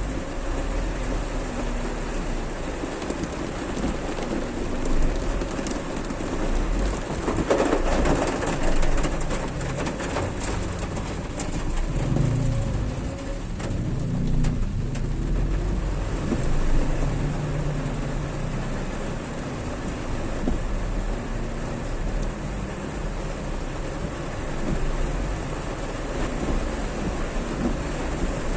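Heavy rain falling and splashing on surfaces, a steady dense hiss, with the low hum of vehicle engines in slow traffic under it, plainest about halfway through.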